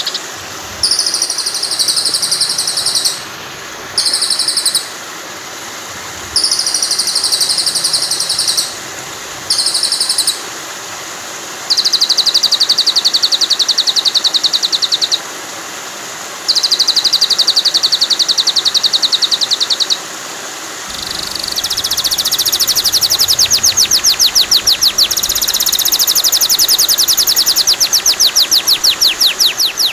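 Recorded songbird calls for a white-rumped shama (murai batu) training track. Very high, buzzy calls come in short bursts, then turn into long, fast trills of several seconds each, over a steady rush of flowing water.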